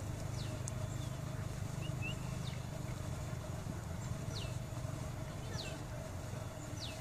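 A bird calling with short whistled notes that slide downward, one every second or two, over a steady low rumble and a faint steady hum.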